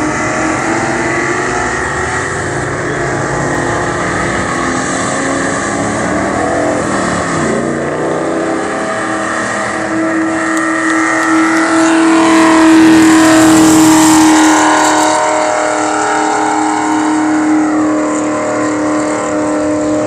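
Ford Mustang doing a long burnout: the engine is held at high revs while the rear tyres spin and squeal. The pitch dips and climbs back about seven seconds in, and the sound is loudest between about twelve and fifteen seconds in.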